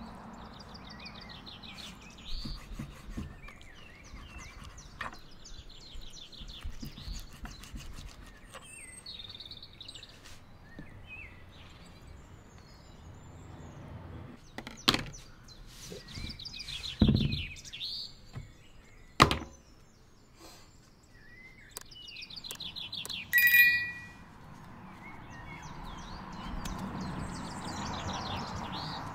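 Small birds chirping in short trilled bursts, with several sharp knocks and thuds in the second half.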